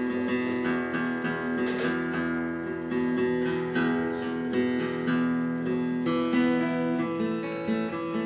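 Acoustic guitar capoed at the second fret, picked and lightly strummed, with single notes and chords ringing over one another.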